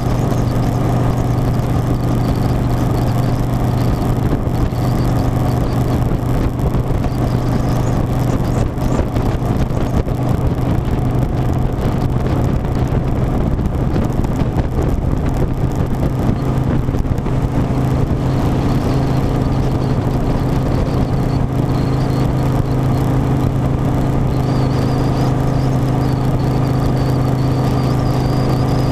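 Harley-Davidson Softail Standard's V-twin engine running at a steady speed under way, a constant drone with no change in revs.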